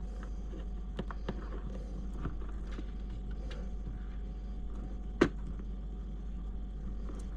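Small hard clicks of tiny screws, parts and hand tools being handled during RC chassis assembly, with one sharp, louder click a little past five seconds, over a steady low hum.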